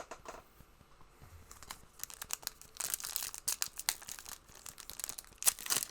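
Plastic trading-card pack wrapper being crinkled and torn open, a dense run of sharp crackles starting about two seconds in, after a few faint clicks.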